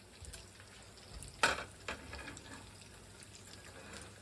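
Kitchen utensil knocking against cookware during stirring and handling of the soup pot, with one sharp clack about one and a half seconds in and a few lighter knocks after it.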